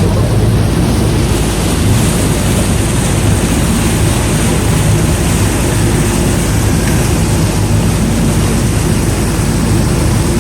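Water shuttle boat's engine running steadily under way, a low hum under a loud, even rush of water and wind.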